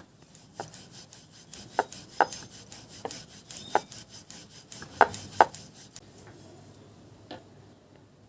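Rolling pin rubbing and knocking against a rolling board as roti dough is rolled out: a soft rubbing with irregular sharp knocks about once a second, the loudest two close together about five seconds in.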